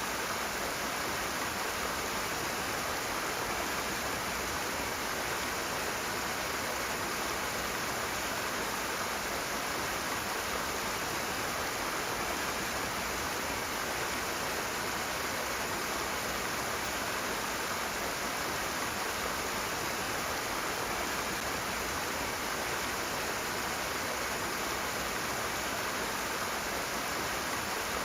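Rushing water flowing hard and steadily, an unbroken even rush with no changes.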